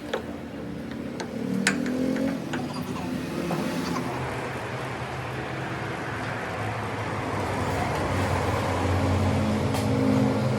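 A motor-driven machine running steadily with a low hum and a hiss, with a few sharp clicks in the first two seconds.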